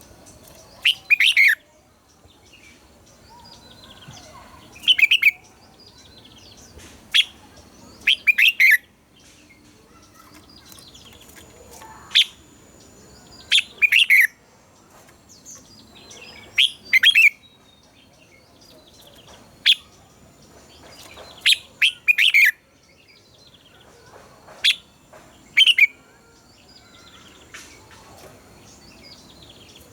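Red-whiskered bulbul (chào mào) singing: short, loud chirping phrases, each under a second, repeated every two to three seconds.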